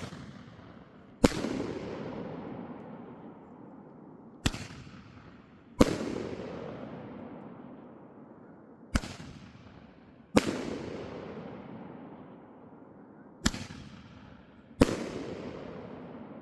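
A 30mm six-shot firework bomb tube firing its shots one after another. Each shot gives a sharp crack as it launches, then a louder bang about a second and a half later as the shell bursts, which rolls away slowly. The shots come about every four and a half seconds.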